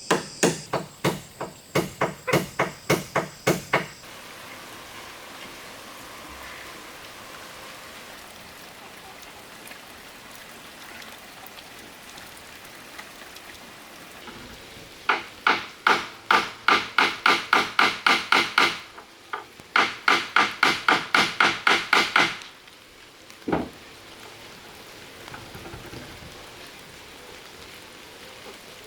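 Hammer striking wood in quick, even runs of blows, about four a second. A run of about a dozen blows comes at the start, then two longer runs after a pause of roughly ten seconds, and a single last blow.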